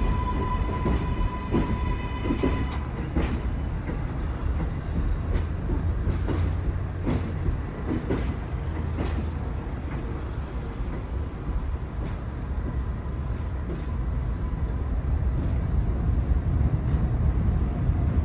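R188 subway train running with a steady low rumble. A high whine fades out about three seconds in, and scattered clicks from the wheels over the rails are heard.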